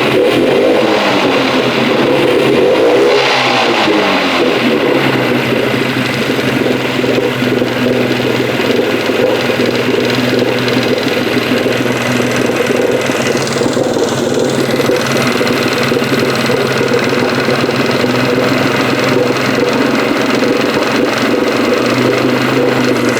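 1986 Mercury two-stroke outboard motor running out of gear, its revs falling and rising over the first few seconds, then running steadily. The motor does not run right, which the owner puts down to a fuel delivery problem in the carburetor.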